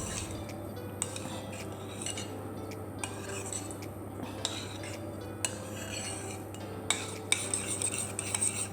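A spoon stirring thick barbecue and tomato sauce mixed with gravy in a bowl, with scattered light clinks and scrapes against the dish over a steady low hum.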